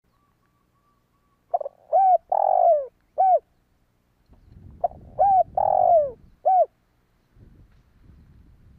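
Spotted dove cooing: two phrases about three seconds apart, each a short note, a quick pair of notes, a long falling coo and a final short note.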